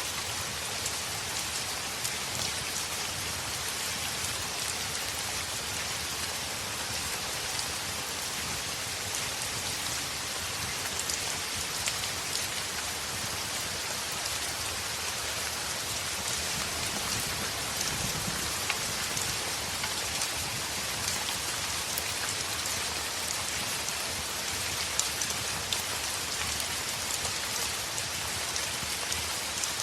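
Heavy rain falling steadily on a window, with the sharp crackles of a log fire popping now and then.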